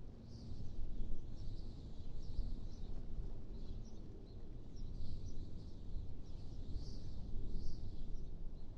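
Wind blowing in gusts, a low rumble that swells and eases every second or two, with small birds chirping repeatedly over it.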